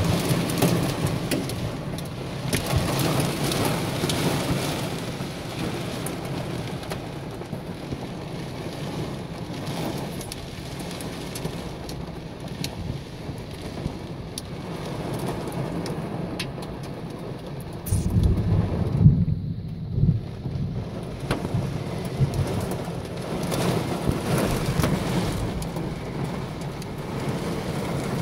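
Heavy rain with hail pelting a car's roof and windows, heard from inside the cabin as a steady hiss scattered with many sharp little ticks. About 18 seconds in, a low rumble of thunder swells for about three seconds.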